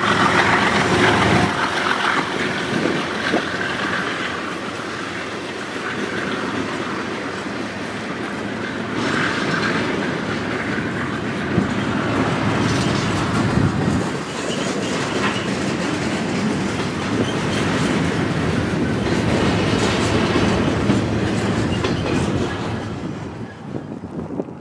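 Cars of a passing intermodal freight train, double-stack container cars and then trailers on flatcars, rolling by with the steady noise of steel wheels on the rails. The sound drops away near the end.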